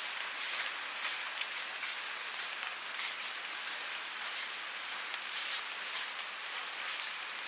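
Steady rain falling and pattering on a surface, a constant hiss broken by many small drop ticks.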